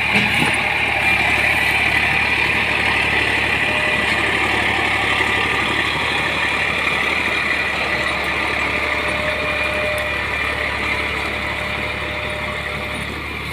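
Eicher 333 tractor's three-cylinder diesel engine running steadily under load as it hauls two trolleys loaded with sugarcane, slowly growing fainter.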